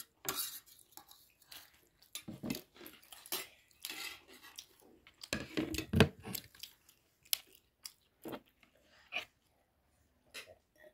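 Close-up eating sounds: chewing mouthfuls of noodles, with many short wet smacks and clicks.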